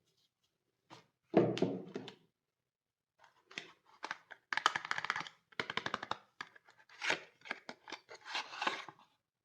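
Soap being unwrapped by hand: a short click and a dull thump in the first couple of seconds, then a long run of crinkling and tearing of the wrapping.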